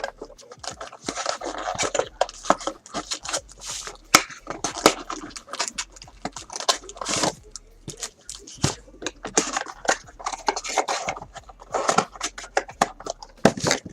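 Trading card packs being handled and opened: irregular crinkling, tearing and scraping of wrappers and cards, in quick sharp rustles.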